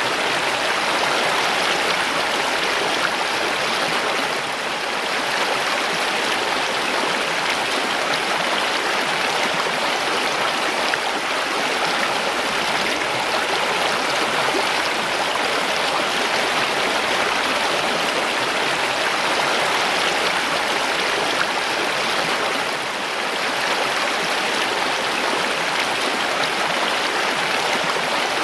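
Mountain stream, water rushing and splashing over rocks in a steady, dense flow.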